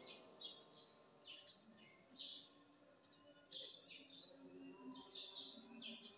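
Faint chirping of small birds: a scattered series of short, high chirps that drop in pitch, several each second.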